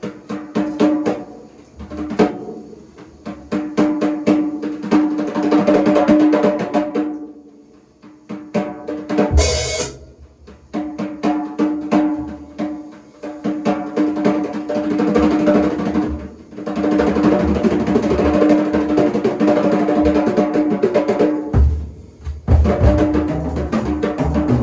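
Drum kit played as a warm-up: runs of rapid rolls and fills with short pauses between them. There is one loud crash-like hit with the bass drum about nine seconds in, and heavier bass drum strokes near the end.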